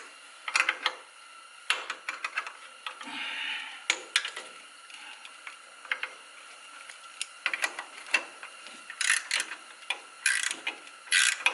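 Hand tools clicking and clinking on the metal of a brake hose bracket as a bolt is worked loose, with short runs of quick ratchet-like clicks near the end.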